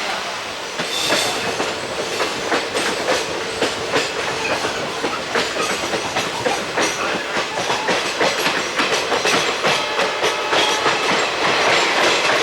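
Moving passenger train of ICF coaches: the wheels clatter over rail joints, giving frequent irregular clicks and knocks over a steady rolling noise.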